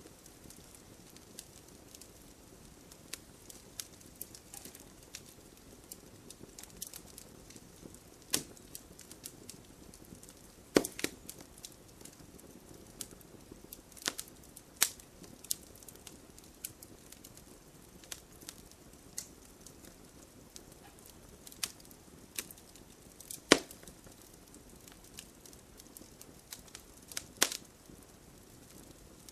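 Wood fire burning in a fireplace: a low steady hiss with frequent scattered crackles and several louder sharp pops.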